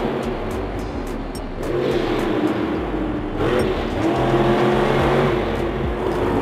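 Monster truck engine running loud and revving, its pitch rising several times.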